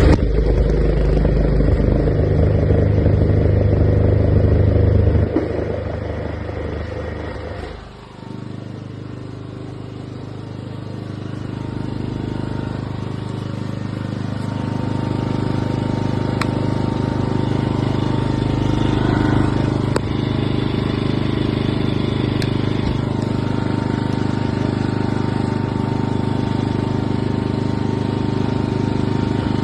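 Ryobi petrol inverter generator's engine running. It runs hard for the first few seconds, then winds down about five to eight seconds in and settles into a steadier, lower running note that slowly builds.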